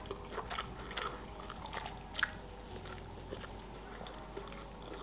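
A person chewing a mouthful of beef burger with the mouth closed: soft, wet mouth clicks close to the microphone, with one sharper click about two seconds in.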